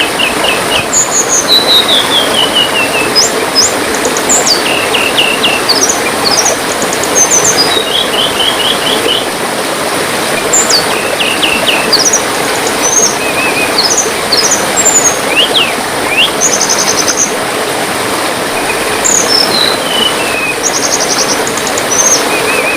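Steady trickling water with a songbird calling over it: short quick chirps, rapid trills and descending note series, repeated throughout.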